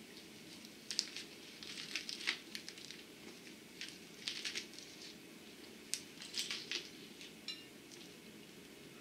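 A man biting into and chewing an oversized mouthful of sandwich with lettuce and dill pickle: crackly crunching in three clusters, about a second in, around four to five seconds, and again around six to seven seconds.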